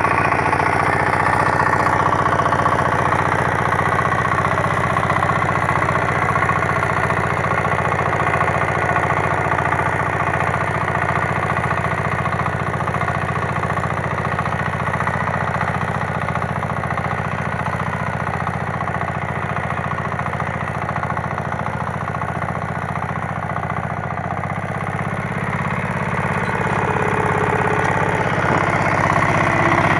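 KAMA 9 hp single-cylinder diesel engine running steadily at idle, a little louder again over the last few seconds.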